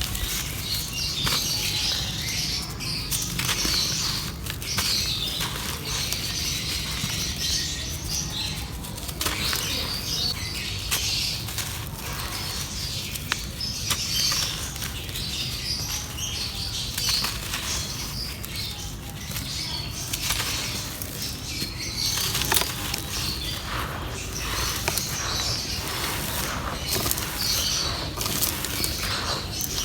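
Dry clay crumbling in a clay pot: continuous dry crunching and crackling, dense with small sharp crackles.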